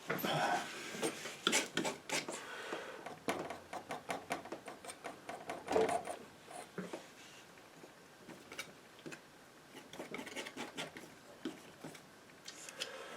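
Painting knife scraping and tapping paint on the canvas and palette: irregular scrapes and light clicks, busier in the first half and sparser later.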